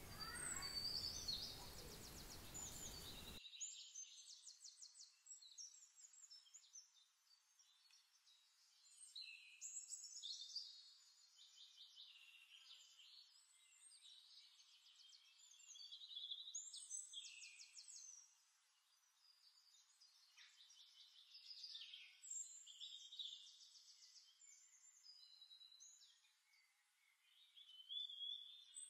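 Faint songbirds chirping and giving short rapid trills, on and off throughout. A light hiss drops away about three seconds in.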